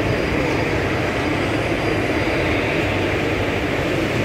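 Steady running noise of a passenger train heard from a coach window: wheels rolling on the rails with a constant rush of air.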